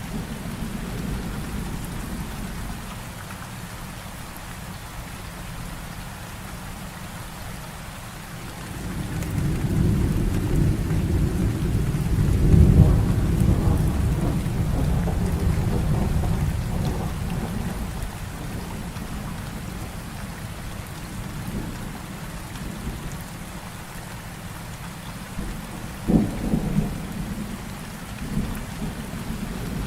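Heavy rain falling steadily through a thunderstorm. A long low roll of thunder swells about a third of the way in, peaks and fades away, and a shorter, sharper crack of thunder comes near the end.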